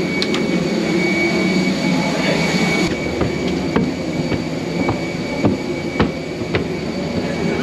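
Steady running noise of a moving vehicle heard from inside, with a thin high whine and a few scattered clicks and knocks.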